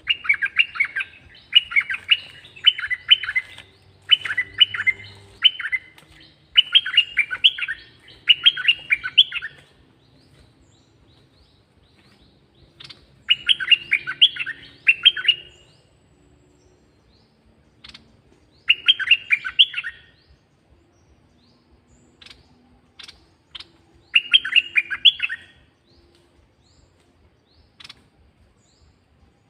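Caged red-whiskered bulbul singing: bursts of quick, bright chirping notes, each burst a second or two long, coming in close runs early on and then spaced out by pauses. A few short sharp ticks fall between the later bursts.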